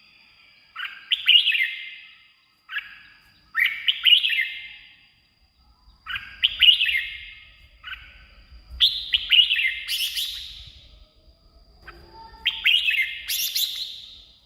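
Red-whiskered bulbul singing: five short phrases of quick, warbling notes, each a second or two long with brief pauses between them.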